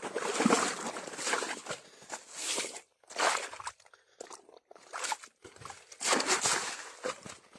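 Irregular bursts of rustling, crunching and sloshing, with short quiet gaps between them, from an eel trap being pulled up and handled in wet vegetation and water.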